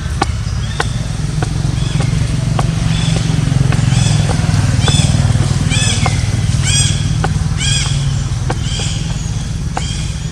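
A motor vehicle's engine hum swelling to its loudest around the middle and then fading as it passes. Through the middle of it a run of short high chirps repeats more than once a second, with scattered sharp clicks.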